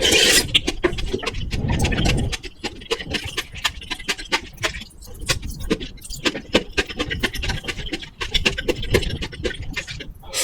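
Close-miked eating sounds: chewing and wet mouth clicks, many small crackles in quick irregular succession, with a louder, fuller stretch in the first two seconds.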